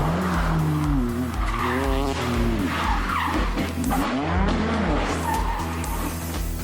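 Car engine revving up and down as the car slides, with tyres skidding on a slippery surface. A steady music beat runs underneath.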